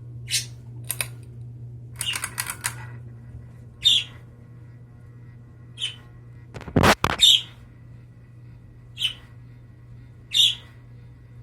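Harbor Breeze Ocracoke ceiling fan running with a steady low motor hum, overlaid by short high-pitched chirps or squeaks every second or two and one louder knock about seven seconds in.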